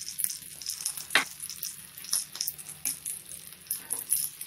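Potato patties sizzling in shallow oil in a nonstick pan as a spatula turns them over, with a few sharp knocks and scrapes of the spatula against the pan, the loudest about a second in.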